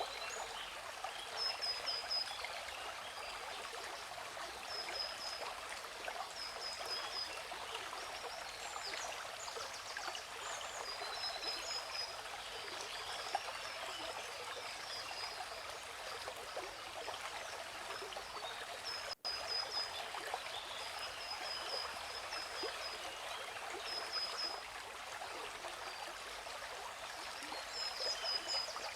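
Steady rushing water of a waterfall, with birds chirping in short quick runs of high notes every second or two over it. The sound drops out for an instant about two-thirds of the way through.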